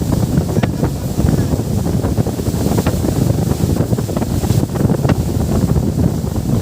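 Wind buffeting the microphone aboard a moving boat, a steady loud rumble with water splashing against the hull.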